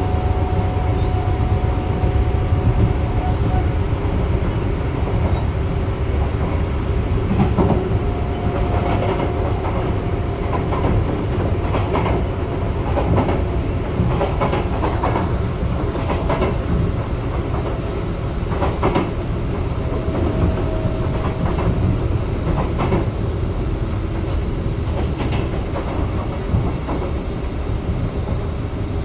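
Sotetsu 9000 series electric train running between stations, heard from inside the car: a steady low rumble of wheels on track, broken by irregular clicks as the wheels cross rail joints. Faint whining tones fade out a few seconds in and return now and then.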